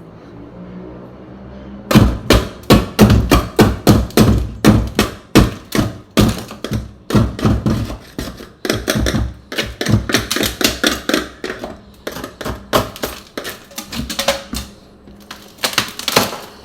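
Rapid, irregular knocking as ice is chipped off inside a Samsung refrigerator's freezer to free the iced-up min/max cold-air control. The knocks come about three to four a second, starting about two seconds in and running almost to the end.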